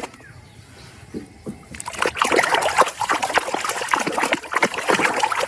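Water splashing and trickling as a muddy plastic toy animal is washed, starting about two seconds in after a few light knocks.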